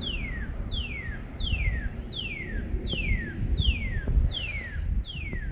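A songbird singing a steady series of clear downslurred whistles, each sweeping down in pitch, about eight notes at roughly one and a half per second, with faint high chirps from another bird. A low rumble runs underneath.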